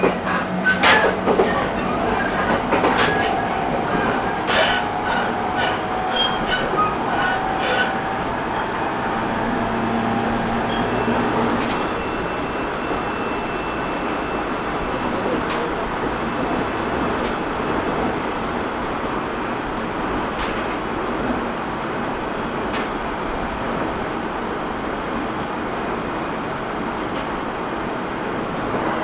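Interior running noise of an E127 series 0 electric train under way. Sharp clicks and clatter come with a thin ringing tone over the first several seconds, then a steady rolling rumble.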